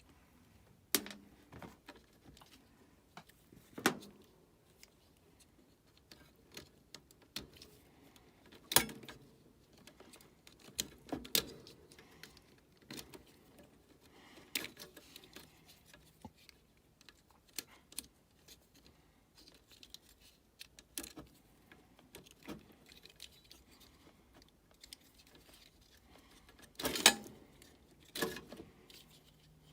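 Scattered small metallic clicks and clinks of hand tools and a screw being handled, with a louder knock about nine seconds in and a cluster near the end.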